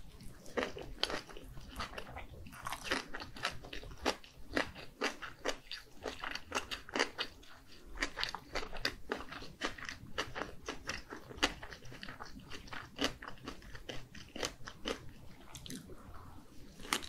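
Close-miked eating of mini gimbap, small seaweed-wrapped rice rolls with carrot and pickled-radish filling: bites and chewing with many quick, irregular crunching clicks, several a second.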